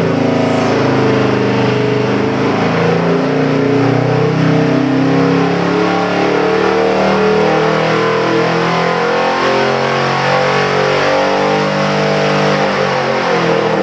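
All-aluminum 427 cubic-inch ZL1 big-block Chevrolet V8 running at a fairly steady speed on the engine dyno, its pitch wavering slightly.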